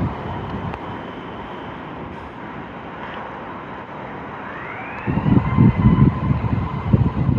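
Emergency vehicle siren, its wail rising in pitch a little over four seconds in, over steady road noise; from about five seconds in, loud uneven low rumbling, likely wind buffeting the microphone.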